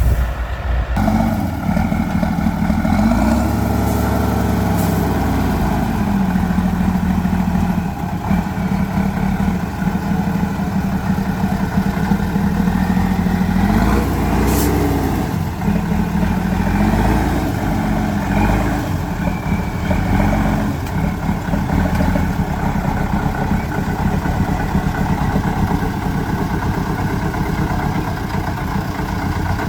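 Heavy trial truck's engine running under load, its pitch rising and dropping back a couple of times as it is revved.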